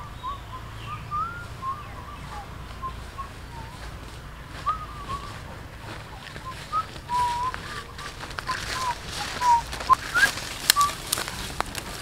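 A bird chirping in short, thin, mostly upward-sweeping calls, repeated irregularly. From about eight seconds in, crackling and rustling of grass and stems grows louder, like someone pushing through vegetation.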